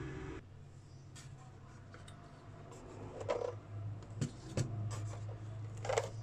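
Small clicks and knocks of parts and tools being handled on an electronics workbench, with two duller knocks about three and six seconds in. A low steady hum stops about half a second in and comes back about three seconds in.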